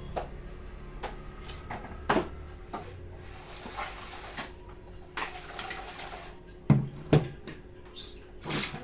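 Handling the plastic parts of an egg incubator: scattered clicks and knocks, two sharper knocks about seven seconds in, and brief rustling, over a faint steady hum.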